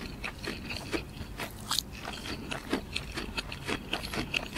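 Close-miked chewing of baked mussels: soft wet mouth clicks and smacks, irregular and several a second.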